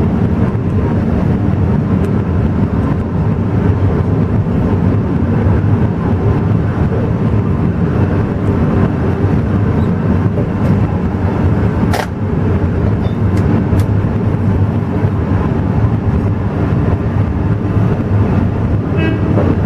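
Alishan Forest Railway passenger train running, a steady low rumble heard from on board, with one sharp click about twelve seconds in.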